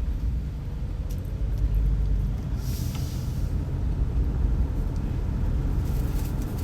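Steady low rumble of a car driving, with a brief rushing hiss about three seconds in.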